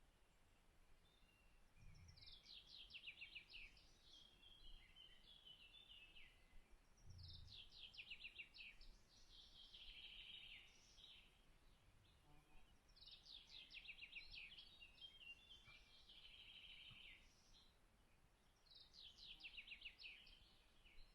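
A songbird sings the same short phrase four times, about every five to six seconds. Each phrase is a fast run of notes falling in pitch, ending in a short warble, over faint outdoor background noise.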